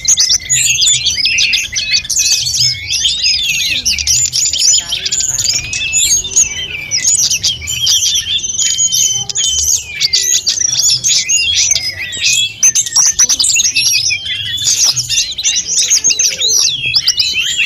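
A sulingan gunung (tledekan gunung) songbird singing without pause, a dense, rapid stream of high chirps and flute-like whistled trills.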